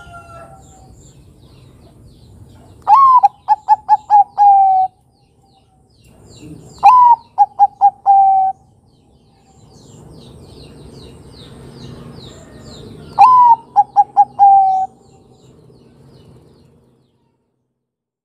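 Zebra dove (Bangkok perkutut) cooing three times. Each phrase opens on a higher note, then runs through a quick stutter of short coos and ends on a longer, lower note. Faint chirps from small birds sound under it.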